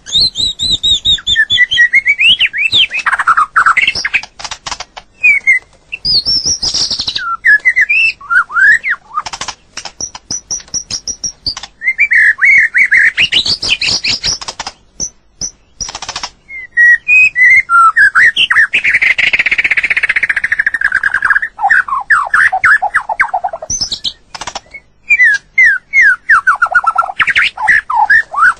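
White-rumped shama singing a varied run of loud whistled phrases, notes sliding up and down, mixed with rapid sharp clicking notes.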